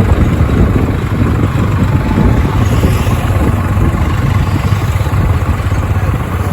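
Mahindra 575 DI tractor's diesel engine running steadily, a deep, even drone throughout.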